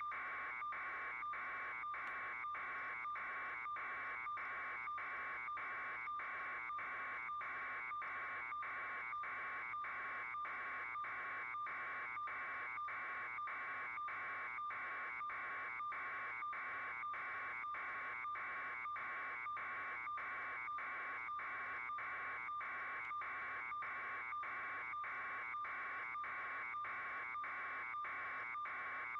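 A steady buzzing tone that pulses evenly, about twice a second, without change.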